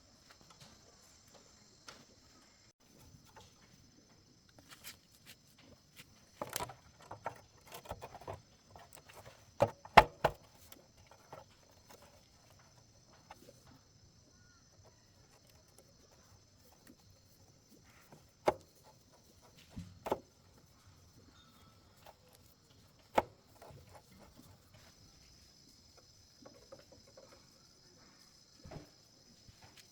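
Scattered sharp knocks and clicks of tools and metal parts being handled during bicycle repair work, the loudest a pair of knocks about ten seconds in, with single ones every few seconds after.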